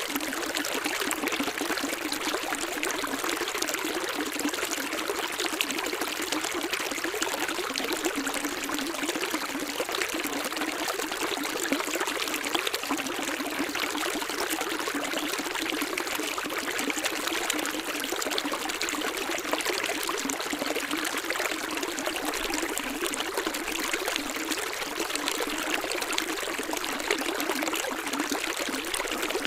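Running water, a steady, even splashing with little low rumble.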